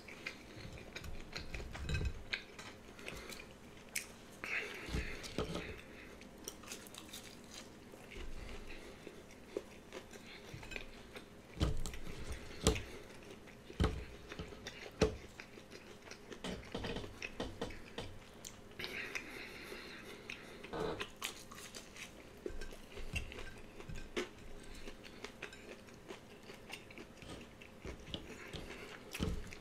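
Close-up mouth sounds of a person chewing and biting breaded chicken nuggets, with irregular wet clicks and crunches.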